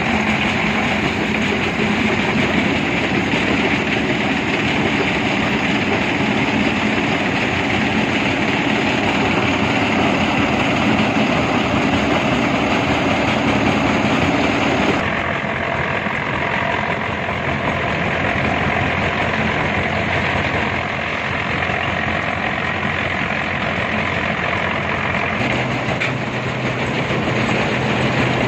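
Heavy construction machinery running steadily: a loud, dense mechanical din over a low engine hum. The sound changes abruptly about halfway through and again near the end.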